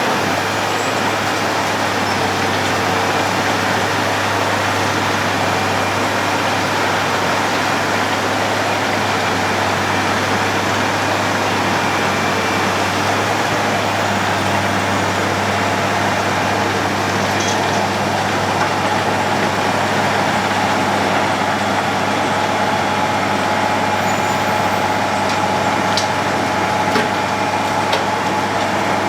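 Road planer (cold milling machine) at work, its diesel engine and machinery running with a steady drone and dense noise. A few sharp clicks come near the end.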